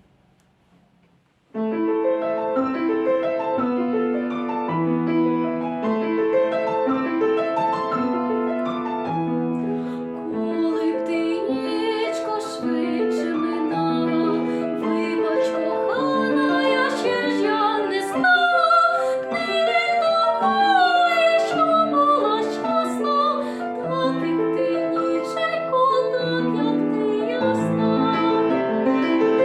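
Piano accompaniment of a classical art song, starting after a short silence, with a woman's voice entering about halfway through and singing with vibrato.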